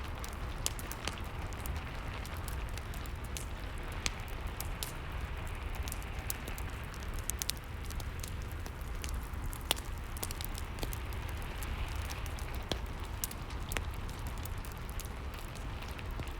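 Fireplace crackling over steady rain: a constant hiss and low rumble with scattered sharp pops and snaps at irregular moments.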